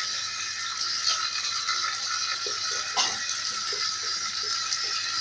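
Dishes being handled and scrubbed at a kitchen sink by hand: light rattling over a steady hiss, with small taps about three a second in the second half and one sharper knock about three seconds in.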